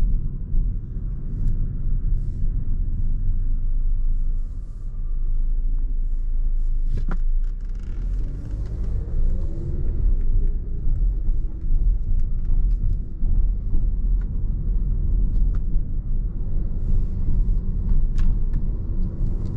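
Car cabin road and engine rumble while driving, a steady low drone, with a few faint clicks.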